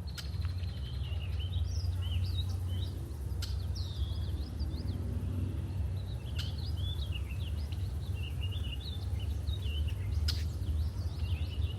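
Red-winged blackbirds calling around a marsh, a steady stream of short chirps and sliding calls, over a continuous low rumble with a few sharp clicks.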